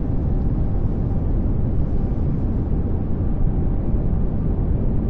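Steady pink noise: an even, unchanging rumbling hiss, heaviest in the low end.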